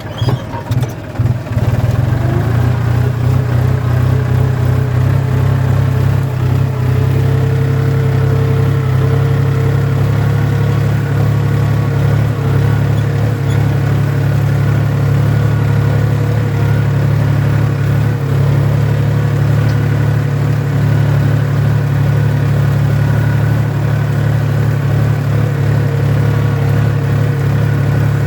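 Tractor engine running steadily under load while plowing, a constant low drone.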